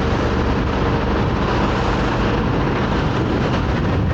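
Honda Africa Twin's parallel-twin engine running steadily while riding, under a constant rush of wind and road noise.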